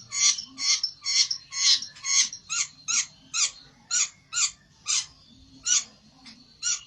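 Pelentet bird calling: a run of about thirteen sharp notes, each sweeping down in pitch, roughly two a second, stopping just before the end.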